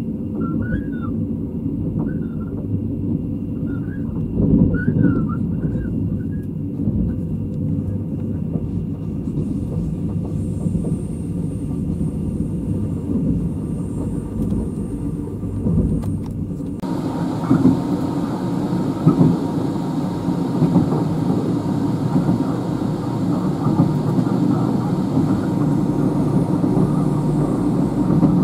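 Running sound inside a State Railway of Thailand sleeper coach at speed: a steady low rumble of wheels and bogies on the track, with a few short squeaks in the first several seconds. Just past halfway it turns abruptly brighter and hissier.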